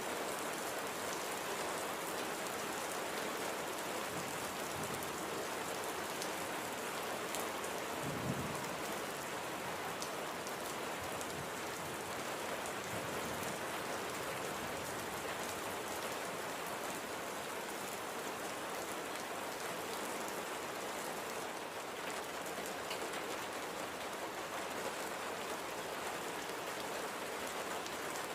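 Light, gentle rain falling steadily, with a brief low thump about eight seconds in.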